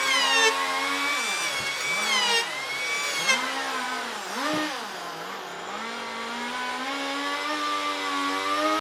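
Handheld electric power tool motor running at high speed while cutting wood. Its whine drops in pitch several times as it bogs under load, recovers, and steadies toward the end.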